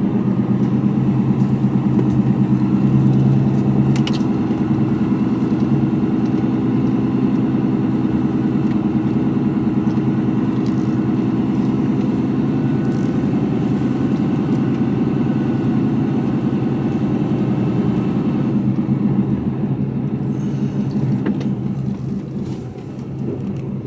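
Mercedes-Benz Actros lorry's diesel engine running steadily under way, heard from inside the cab, with a slight drop in level near the end.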